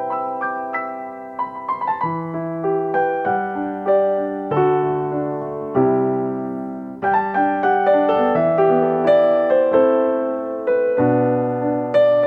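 Background piano music: a slow, gentle piece of decaying notes and chords.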